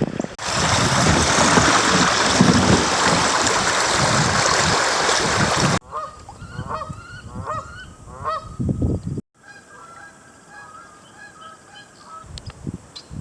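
A loud, steady rushing noise for about five and a half seconds stops abruptly. Geese then honk in a quick series of calls, fainter in the last few seconds.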